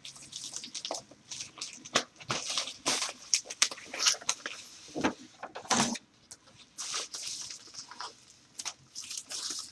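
A mailed package being unwrapped by hand: irregular crinkling, rustling and tearing of the packaging.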